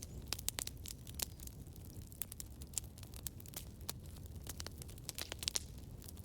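Campfire burning: a low steady rumble with frequent irregular sharp crackles and pops of burning wood.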